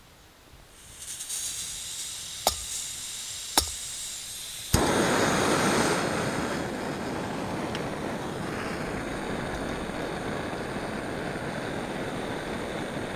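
Backpacking canister gas stove being lit: gas hisses from the opened valve, the igniter clicks twice without catching, and on a third click about five seconds in the burner lights and burns with a steady rushing noise.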